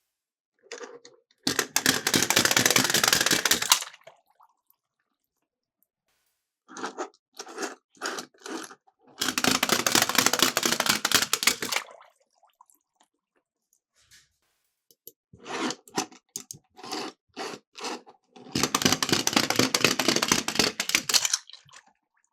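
Miniature die-cast toy cars rolling down a plastic track, three runs of about two and a half seconds each, each run preceded by a few light clicks and knocks as cars are handled and set on the track.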